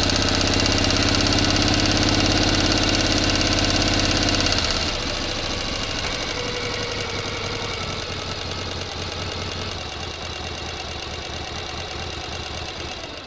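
Motor running steadily with a fast, even pulse. About a third of the way through it drops in level and its lower tones weaken, and it runs on more quietly.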